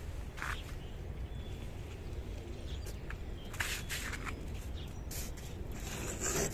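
A few short swishing, scraping strokes of snow being cleared off a car, each about half a second long, the last and loudest near the end, over a steady low outdoor rumble.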